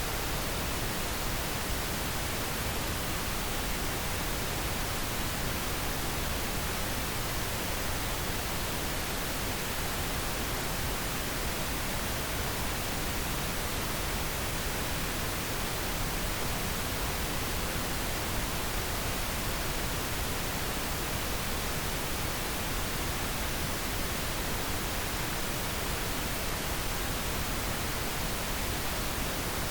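Steady synthetic pink noise: an even, unchanging hiss across the whole range, the kind played as a sleep aid for babies.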